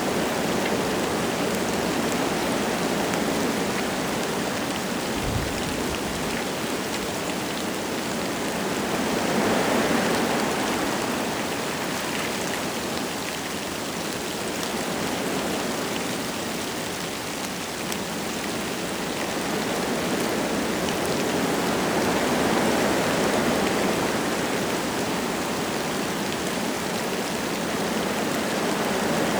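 Wind gusting through forest trees with light rain falling, a steady rushing that swells and eases, building about ten seconds in, again a little past twenty seconds and near the end. A brief low thump about five seconds in.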